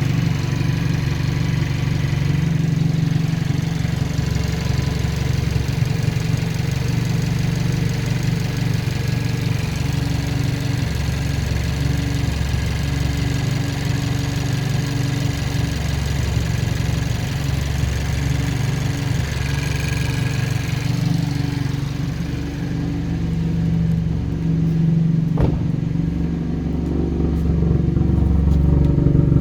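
Hyundai i30 N's turbocharged 2.0-litre four-cylinder engine running steadily, with a faint high whistle held over the engine note.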